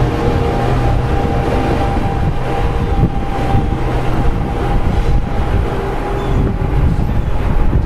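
NJ Transit Arrow III electric multiple-unit train departing: wheel and motor running noise as the last car passes close by and the train pulls away. Steady hums run under the noise and fade after about six seconds as the train recedes.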